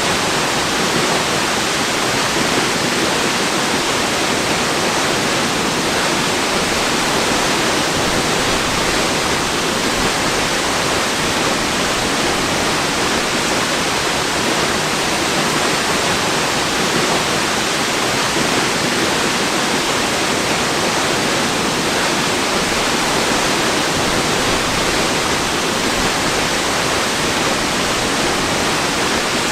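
Waterfall: a steady, unbroken rush of falling water, mostly high hiss with little low rumble.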